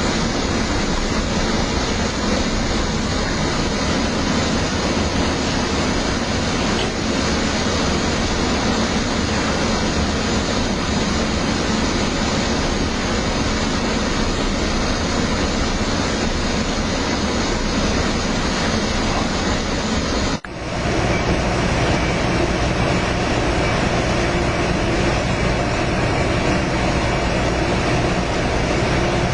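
Steady rumble and rush of a moving passenger train heard from inside the car. About two-thirds of the way through the sound drops out for a moment and comes back with a slightly different tone.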